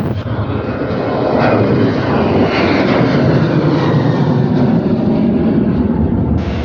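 Fixed-wing aircraft engines running loud as the aircraft passes, a steady roar with a whine that falls in pitch.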